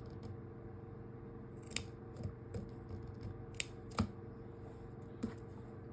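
Scissors snipping the fabric ends of sewn cloth doll body pieces, a handful of separate crisp snips a second or so apart, trimming the seam allowance so the pieces turn right side out more easily.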